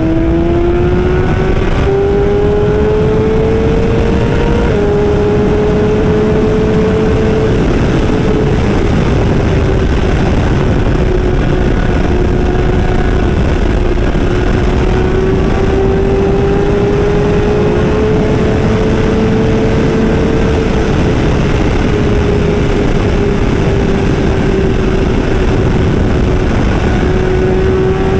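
Superbike engine running hard at speed, its note climbing over the first few seconds. The pitch drops slightly about five seconds in, then holds fairly steady with slow rises and falls, over a constant low rush of noise.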